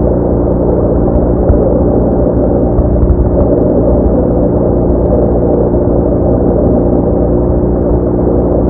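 BMW R1200R boxer-twin engine running at steady revs while riding, a constant drone mixed with wind and road noise.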